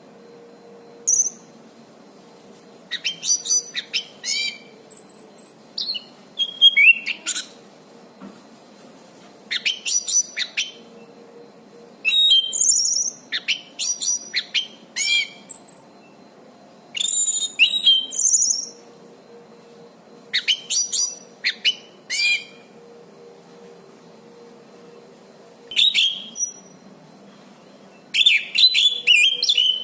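Anis cendana thrush singing vigorously: short phrases of clear whistles, rapid trills and slurred notes, repeated every second or two with brief pauses, over a faint steady hum.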